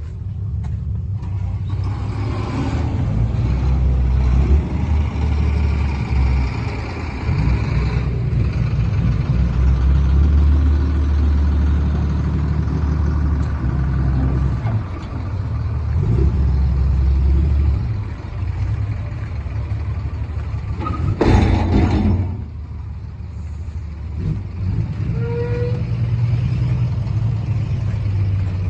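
Sinotruk Howo 6x4 dump truck's diesel engine running with a deep steady rumble that swells and eases, and a short loud burst of noise lasting about a second near the end.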